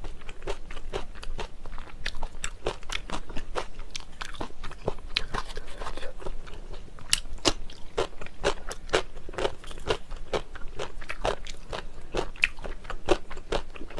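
Close-miked eating sounds of jjajangmyeon (noodles in black bean sauce): chewing with many quick, irregular crunches.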